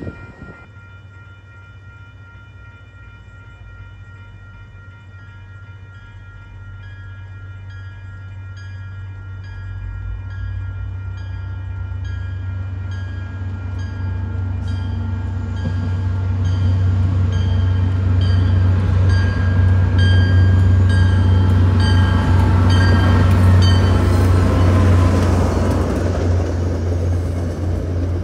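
MBTA commuter train approaching and passing: a low rumble builds steadily louder as it comes in, while a warning bell dings over and over in a steady rhythm, stopping near the end as the coaches go by.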